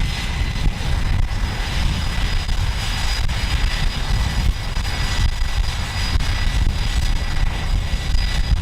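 Jet aircraft engines running on a carrier flight deck: a steady high whine over a deep rumble.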